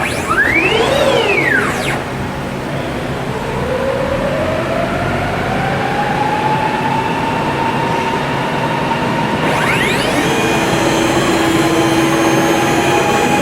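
Stepcraft Q408 CNC router running. A whine climbs steadily in pitch for several seconds and then holds, like the spindle spinning up to speed. Short whirs rise and fall in pitch near the start and again near the end as the axis motors speed up and slow down, over a steady mechanical whir.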